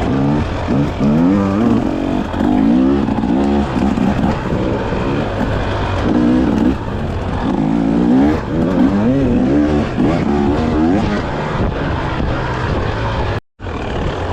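Dirt bike engine revving up and down over and over as it is ridden along a trail, the pitch rising and falling with the throttle. The sound cuts out briefly near the end.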